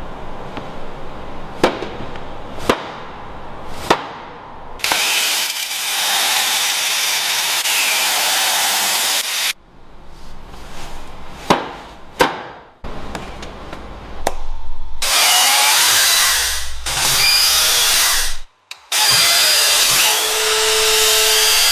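A run of workshop tool sounds, cut together abruptly: sharp metallic clicks and knocks, then stretches of loud hissing, whirring power-tool noise that start and stop suddenly several times.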